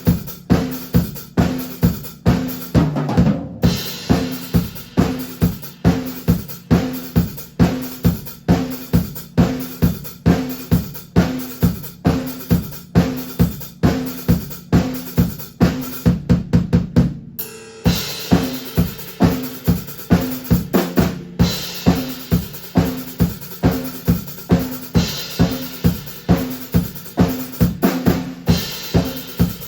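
Drum kit played on its own, bass drum and snare keeping a steady beat. About halfway through there is a quick run of rapid hits, then a short break and a cymbal crash, with more crashes every few seconds after.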